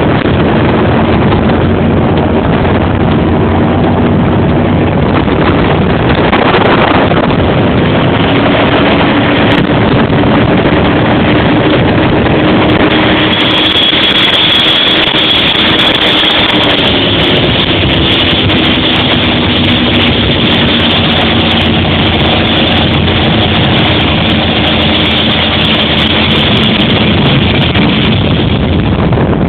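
Racing motorboat's engine running loud and steady, its pitch drifting slightly up and down, over a constant rushing noise.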